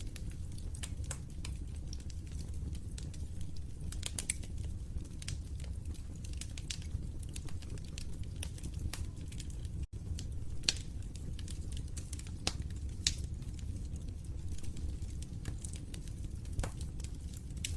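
Wood fire crackling in a fireplace: a steady low rumble of burning with frequent sharp, irregular pops and snaps. The sound drops out for a split second about ten seconds in.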